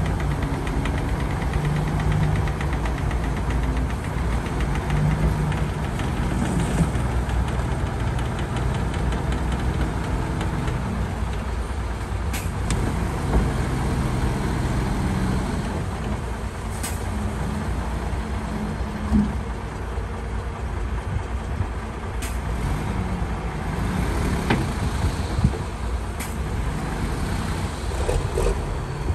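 Heavy construction machine's diesel engine running under working load, its pitch rising and falling, with a few sharp metallic knocks.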